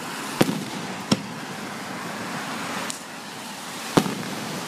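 A few sharp fireworks bangs at irregular intervals, the loudest near the start and near the end, over a steady outdoor hiss.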